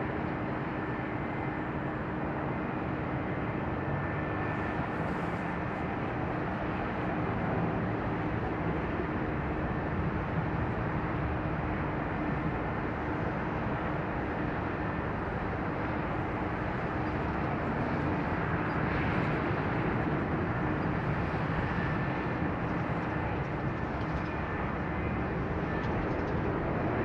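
Steady noise of jet airliners at a large airport, a continuous even rumble with a faint steady hum, swelling slightly about two-thirds of the way through.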